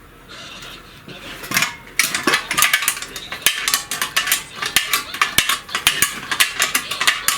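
A wrench unscrewing the fuel tank's fastening on a walk-behind tractor, making rapid metallic clicking. The clicking starts about two seconds in and runs on at several clicks a second.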